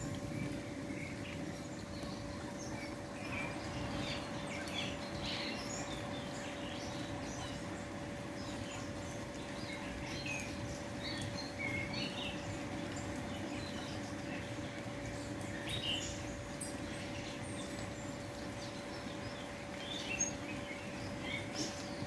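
Small birds chirping, with short, scattered calls that keep coming throughout, over a steady low background rush and a faint constant hum.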